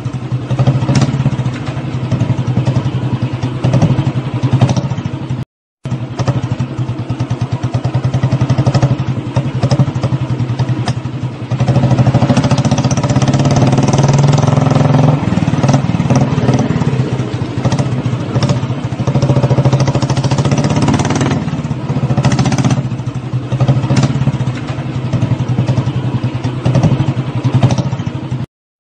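Motorcycle engine running with a rapid, steady beat, getting louder and revving from about twelve to fifteen seconds in before settling back. The sound drops out briefly twice, once near six seconds in and once near the end.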